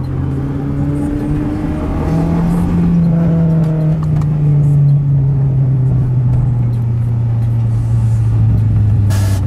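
A car engine running steadily under way; its pitch steps up about two seconds in and then slowly falls as it eases off.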